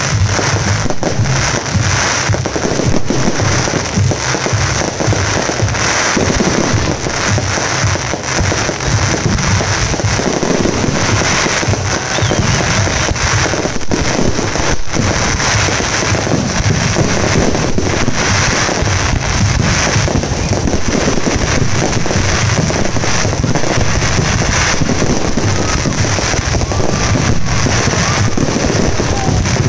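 Fireworks finale: a dense, continuous barrage of rapid bursts and crackles with no gaps. Music plays underneath the bursts.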